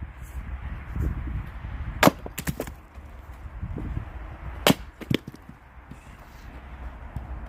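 Axe blows splitting firewood: two sharp strikes on wood about two and a half seconds apart, each followed by a smaller knock or two.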